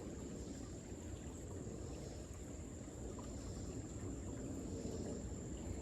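Quiet, steady creekside background noise with a constant high-pitched insect drone, such as crickets, running through it.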